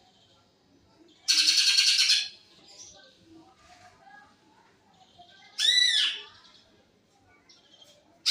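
Greater green leafbird (cucak ijo) singing its fast mimicked song phrases. A loud, rapid chattering trill comes about a second in and lasts under a second. Near the six-second mark comes a short run of ringing, arched whistled notes.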